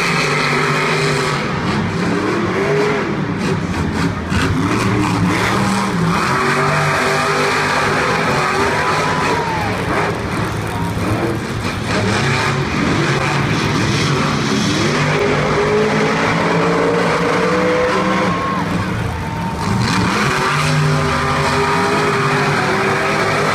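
Monster truck supercharged V8 engines revving hard and repeatedly, their pitch climbing and dropping again and again as the trucks run the course.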